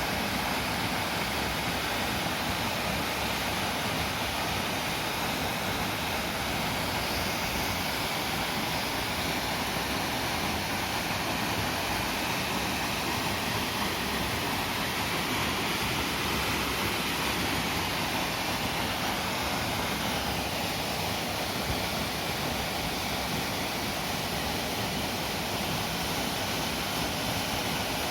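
Waterfall rushing: a steady, unbroken noise of falling water that holds the same level throughout.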